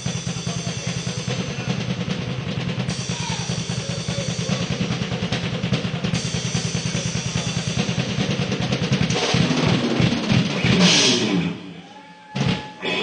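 A rock drum kit played live: a fast, continuous roll for about nine seconds, then slower, heavier drum hits and a cymbal crash about eleven seconds in, where it stops, followed by a couple of single hits near the end.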